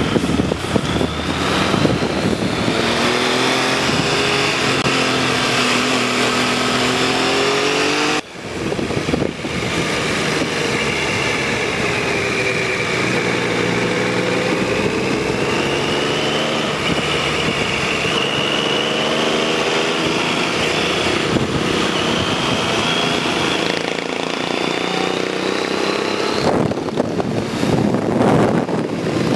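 A motor vehicle engine running, its pitch slowly rising and falling, with a brief break about eight seconds in.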